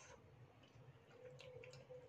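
Faint eating sounds of a person chewing a mouthful of noodle soup, with a few soft clicks.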